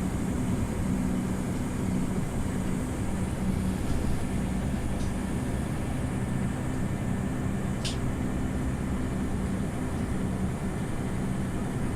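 Scania OmniLink CL94UB city bus heard from inside the cabin: the engine runs with a steady low hum under a continuous rumble of road and cabin noise. A short sharp click comes about eight seconds in.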